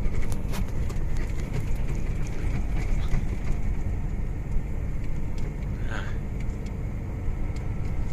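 Steady low rumble of a truck cab under way, with engine and road noise, scattered light ticks, and a brief squeak about six seconds in.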